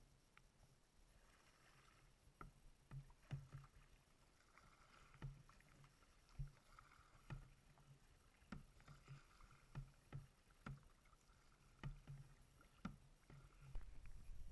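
Faint kayak paddling: a soft knock from each paddle stroke, about once a second, over a faint wash of water.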